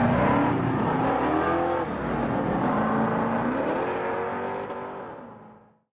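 Car engine revving and accelerating, its pitch climbing twice, over road and traffic noise; the sound fades out near the end.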